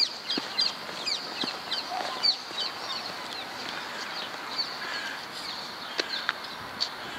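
Small birds chirping in a fast run of short, high chirps, each dropping in pitch, which thin out after about three seconds, over steady background noise.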